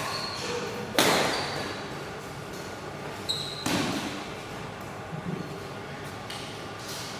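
Badminton rally in an echoing hall: a sharp racket hit on the shuttlecock about a second in, the loudest sound, and another hit a little past the middle, with short high squeaks of court shoes in between.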